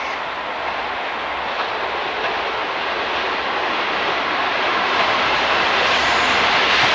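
Train running past on the line, a steady rushing noise growing gradually louder as it approaches.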